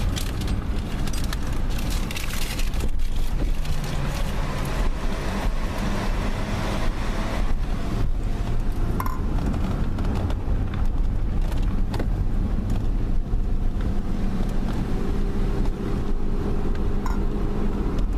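A car driving: steady engine hum and road noise.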